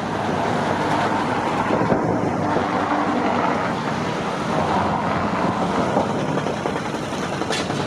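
Strong wind blowing across the camera microphone, a steady rushing noise, with a brief click near the end.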